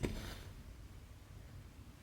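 Embroidery floss drawn through cross-stitch fabric: one brief swish with a sharp start, lasting about half a second.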